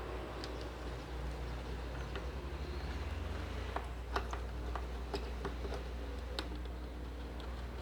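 Scattered small clicks and taps of a screwdriver and the iron's plastic housing being handled while screws are taken out of a steam iron, over a steady low hum.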